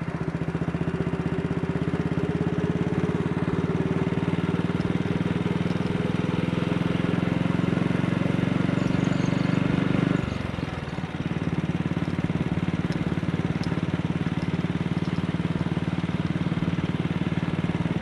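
AJS Model 8 motorcycle engine running steadily under way, with a brief drop about ten seconds in before it picks up again.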